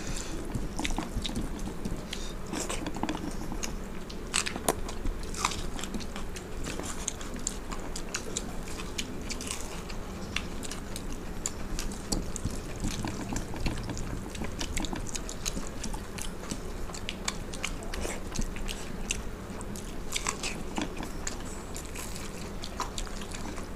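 Close-miked eating: irregular crunching and chewing of soaked rice with fried dry chillies, with small clicks and squelches as the wet rice is mixed by hand.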